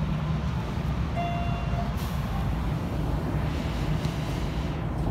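Hanshin Railway electric train running, a steady low rumble of wheels and motors heard from inside the passenger car, with a brief high tone about a second in.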